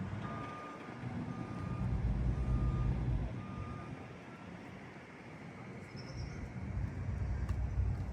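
Vehicle reversing alarm beeping about once a second in a single steady tone, fading out about four seconds in, over the low rumble of vehicle engines.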